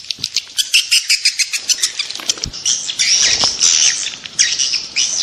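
Swiftlet calls: a fast, even run of high chirps and clicks, about eight a second, that gives way about halfway through to longer, denser twittering. It is the kind of call track played to lure swiftlets.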